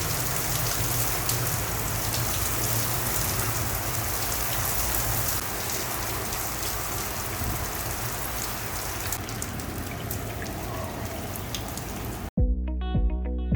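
Steady rain falling. It cuts off abruptly near the end, when guitar music comes in.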